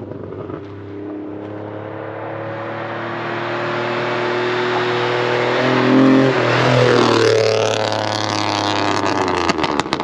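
A car with a loud exhaust drives up and passes close by. Its engine note grows steadily louder for about six seconds, then drops in pitch and eases off a little as it goes past, echoing.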